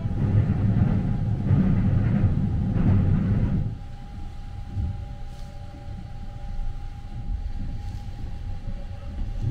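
Sunrise Express sleeper train (285 series electric train) running, heard from inside a compartment: a loud low rumble while it crosses a steel truss bridge, dropping about three and a half seconds in to a quieter steady running rumble with a faint steady whine.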